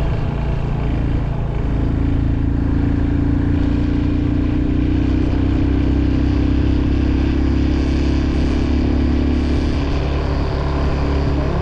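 Motorcycle engine running steadily while riding, its pitch climbing slightly over the first few seconds and then holding.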